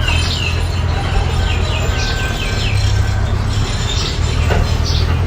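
Mini bulldozer engine running with a steady low rumble, with a run of short, high, falling chirps over it.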